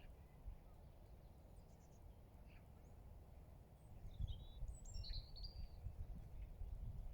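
Faint, short, high chirps of small birds, mostly in a cluster about four to five seconds in, over an uneven low rumble.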